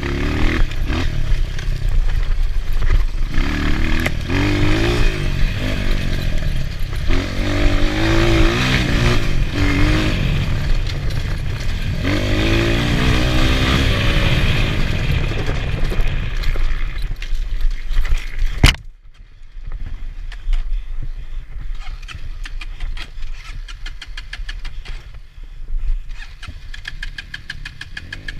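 Enduro motorcycle engine revving up and falling back repeatedly under riding, with rattling and wind noise. About two-thirds of the way in there is a sharp knock, and the engine sound drops to a quieter, lower, steadier run.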